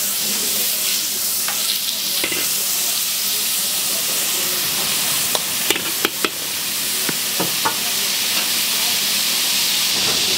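Food sizzling steadily in a hot wok over a large fire, with a few sharp clinks of a metal spatula against the pan around the middle.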